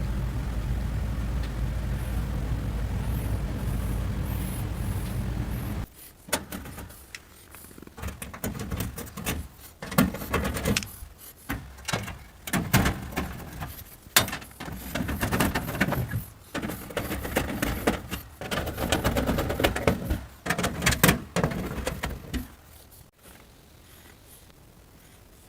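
A machine's steady low motor hum cuts off suddenly about six seconds in. Irregular knocks, clatter and rustling of parts being handled follow, then stop a few seconds before the end.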